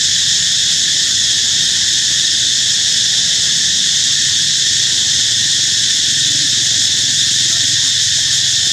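Loud, unbroken chorus of insects in the forest, a steady high-pitched hiss.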